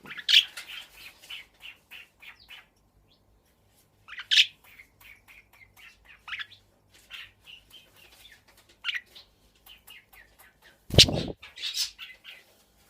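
Pet budgerigars chirping and chattering in short, scattered bursts of high chirps. A brief loud thump comes near the end.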